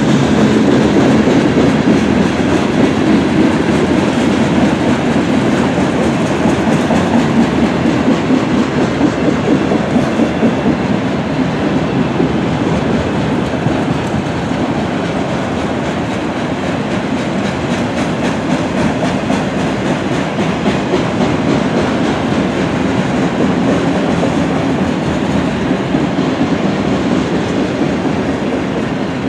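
Freight train cars passing: tank cars and enclosed autorack cars rolling by, their steel wheels rumbling steadily on the rails with repeated clicks over the rail joints.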